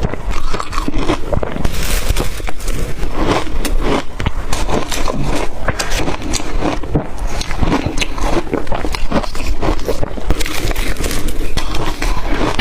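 Close-miked crunching of blender-crushed ice being bitten and chewed: a dense, continuous run of crisp crackles and crunches.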